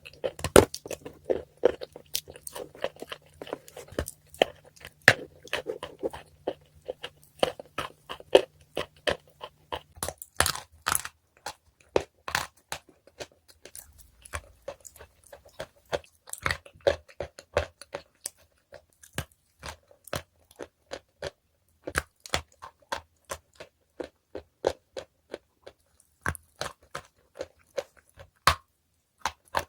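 Crunchy chewing and biting: a long run of sharp, irregular crunches, densest in the first ten seconds, then sparser and more spaced out. A faint low hum underneath stops about ten seconds in.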